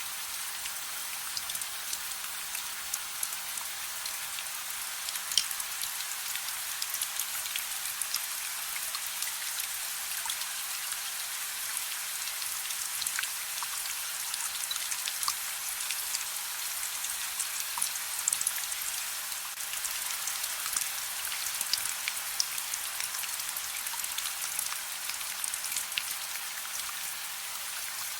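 Steady soft rain: a dense hiss with many small drop ticks landing on a surface.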